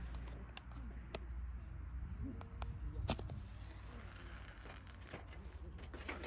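Scattered sharp snaps and crackles, the loudest about three seconds in, over a steady low rumble, as a campfire is being got going and is slow to catch.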